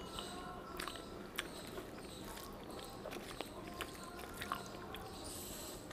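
Close-up chewing of a mouthful of rice and fried greens, with scattered wet mouth clicks and smacks, along with fingers mixing rice on a banana leaf.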